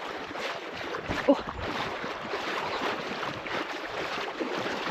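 Wading upstream through a flowing creek against the current: a steady rush and splash of water around the legs.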